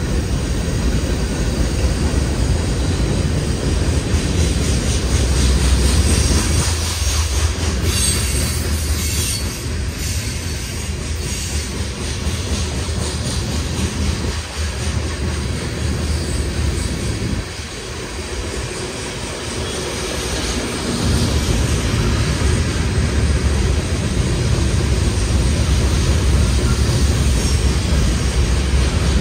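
Freight cars of a passing manifest train, boxcars and covered hoppers, rolling by: steady noise of steel wheels on rail. It eases somewhat a little past halfway and picks up again about twenty seconds in.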